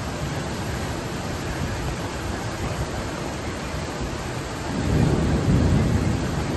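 Strong wind and rain making a steady rushing noise, with a low rumble of thunder swelling up about five seconds in and fading near the end.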